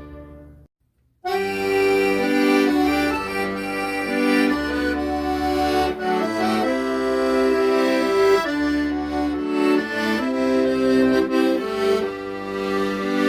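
Accordion music: a held chord fades into a moment of silence, then a new piece starts about a second in, a melody over bass notes on the accordion's bass side.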